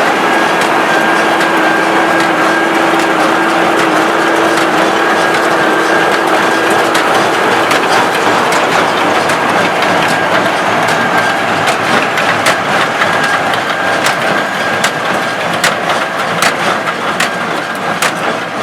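A SAME Explorer 3 tractor engine runs steadily while a Gallignani 3690 square baler packs grass into bales. The baler's mechanism knocks and clacks over the engine, the knocks coming more often in the second half.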